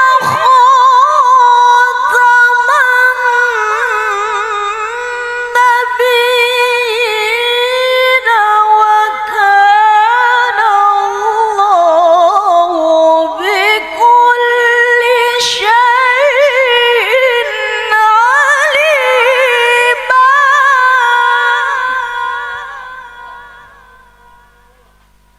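A woman reciting the Quran in the melodic tilawah style, drawing out one long phrase with a high voice and wavering, trill-like ornaments. The phrase fades away over the last few seconds.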